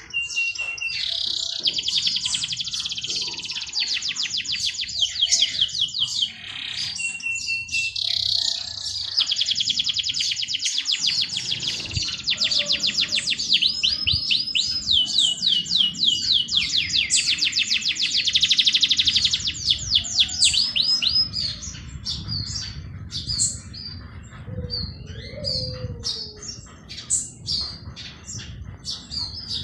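Songbirds singing. For most of the first two-thirds there are long, rapid, high trills, at times over a thin steady whistle; after that come scattered short chirps. A low rumble runs underneath from about a third of the way in.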